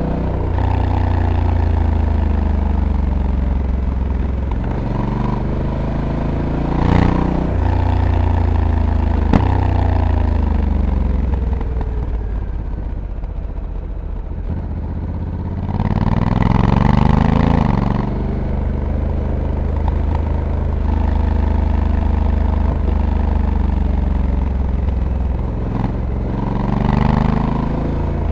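Honda Africa Twin DCT's 1084 cc parallel-twin engine pulling hard out of corners three times and easing off in between, its pitch climbing and then falling away on engine braking. Wind rush swells with each hard pull, and there is one sharp click about nine and a half seconds in.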